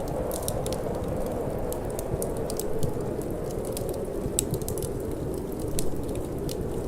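Wood fire in a fireplace crackling, with many small irregular pops and snaps, over a steady low rush of wind.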